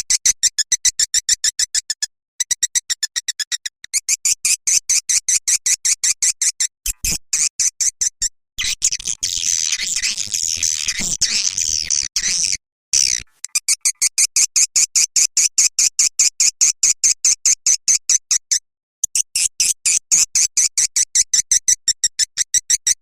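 Swiftlet lure call: rapid trains of sharp, high chirps at about eight a second, repeated in runs with brief gaps, with a denser twittering stretch around the middle. It is the kind of call played from swiftlet houses to draw edible-nest swiftlets in.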